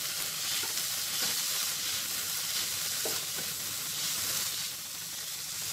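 Chopped vegetables and sweet corn sizzling in butter in a nonstick pan, stirred with a spatula, with a few soft scrapes as it sweeps through the mix.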